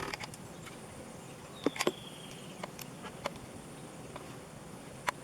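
Scattered light clicks and taps of small parts being handled during bench work, with a brief faint high squeak about two seconds in.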